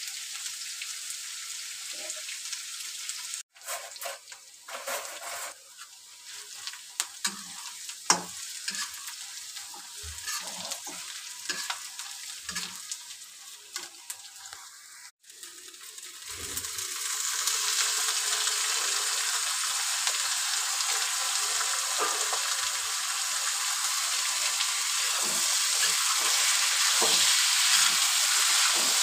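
Chopped onions frying in oil in a kadhai, with a metal spatula scraping and clicking against the pan. About halfway, once chopped green beans are in the pan, the sizzle turns much louder and steady while they are stirred.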